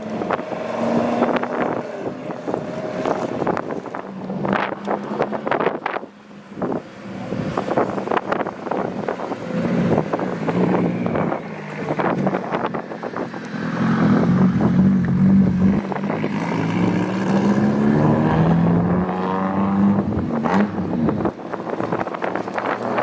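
Custom cars' engines running as the cars drive off, the engine note rising and falling with the throttle and growing louder a little past halfway. Strong wind buffets the microphone throughout.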